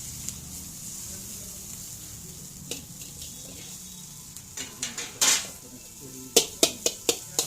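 Chicken chow mein frying with a steady sizzle in a wok, while a metal spatula scrapes and strikes the pan. The strikes come as a few clanks about halfway through, then five sharp, loud ones in quick succession near the end.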